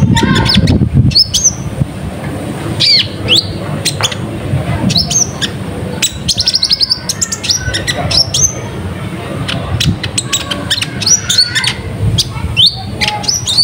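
Kolibri ninja (konin) sunbird chattering in a lure recording: a fast string of short, high, down-slurred chirps and twitters, close together.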